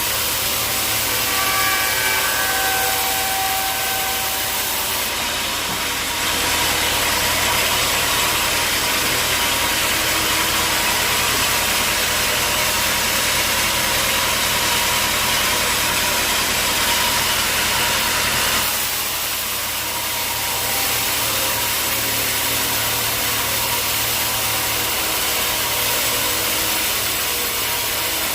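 Sawmill machinery running steadily: a low motor hum under a strong hiss of blade noise. It grows louder about six seconds in and eases briefly near nineteen seconds.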